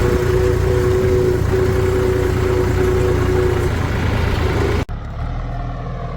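Heavy diesel engine running steadily, with a held whine over the rumble for most of it. Near the end an abrupt cut drops it to a quieter, duller engine sound.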